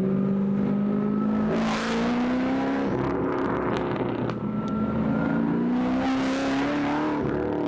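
Custom muscle car's engine under hard acceleration, its pitch climbing, dropping back about two and a half seconds in as it shifts up, then climbing again through the next gear.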